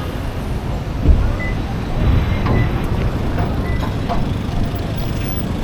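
Busy city ambience: a steady low rumble with scattered clicks, a thump about a second in, and a few short high beeps.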